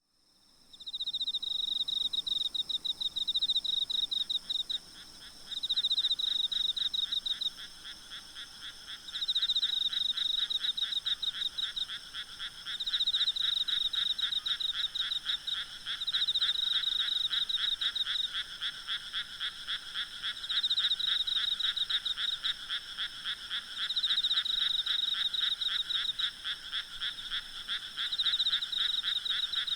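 Night chorus of frogs calling in rapid trilled bouts of a few seconds each, one after another, over a steady high-pitched hum of insects. The sound fades in at the start.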